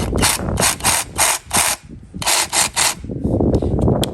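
GardenJoy 21V cordless reciprocating saw, no blade fitted, run in a series of short trigger bursts: about five quick bursts, a short pause, then three more.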